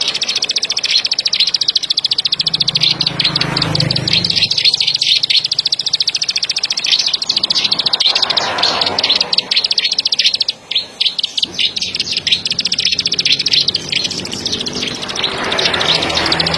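Ciblek sawah (a prinia) singing a rapid, high-pitched trill of fast clicking notes, nearly continuous, with a short break about ten seconds in.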